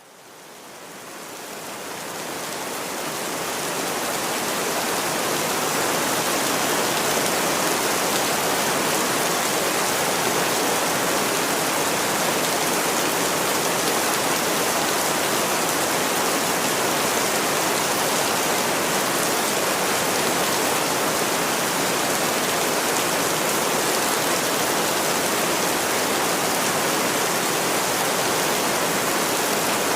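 Steady rain, an even hiss of many drops, fading in over the first few seconds and then holding level.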